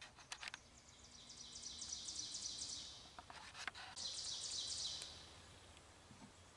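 A songbird singing two rapid, high-pitched trills, the first about a second and a half long and the second about a second, with a few faint clicks near the start and between the trills.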